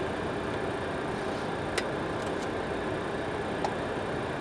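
Steady rushing flight-deck noise of an MD-80 airliner on final approach, with two short clicks about two and three-and-a-half seconds in.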